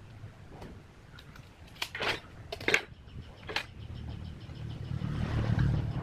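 A few sharp knocks, as of wood being handled or struck, then a low mechanical hum with a fast even ticking that builds toward the end.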